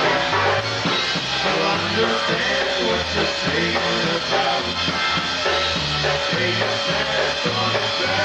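A live polka band playing a tune, with a bass line stepping about twice a second under the melody instruments and drums.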